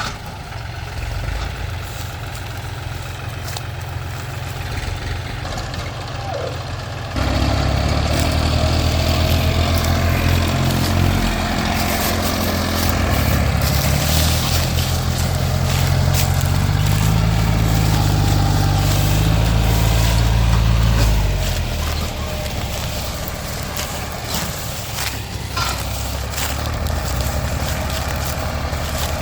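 Tractor diesel engines working under heavy load pulling a loaded sugarcane trolley: steady running, then louder about seven seconds in, the engine note climbing as it is revved harder and dropping back about twenty seconds in.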